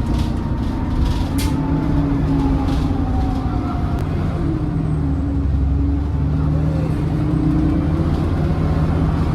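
Alexander Dennis Enviro400 double-decker bus under way, heard on board: the engine and drivetrain run with a steady whine that falls in pitch and rises again as the bus slows and picks up speed, over a low rumble with a few brief rattles.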